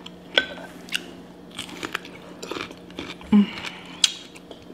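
Close-up crunchy bites and chewing of raw cucumber dressed with sauce: a series of irregular wet crunches, with one brief vocal sound about three and a half seconds in.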